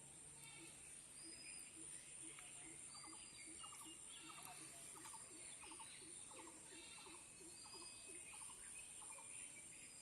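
Faint outdoor nature ambience: several birds and other small animals giving short, repeated chirps and calls over a steady high-pitched hiss.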